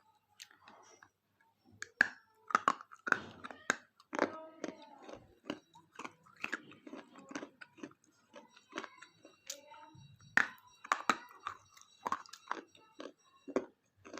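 Close-miked chewing and crunching of a thick KitKat chocolate-covered wafer bar: irregular sharp crunches start about two seconds in and carry on throughout.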